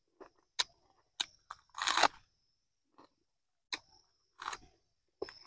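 Close-miked chewing and crunching: a person eating chicken and biting into raw leafy greens, with a series of short sharp crunches and mouth clicks and one longer, louder crunch about two seconds in.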